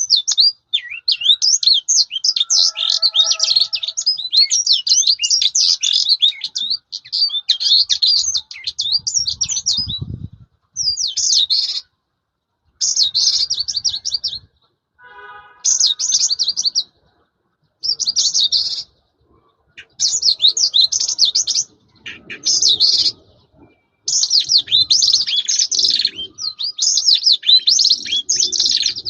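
A caged lark singing a loud, rapid, ever-changing song of chirps, trills and whistles, in long unbroken runs at first and then in phrases of one to two seconds with short pauses between them.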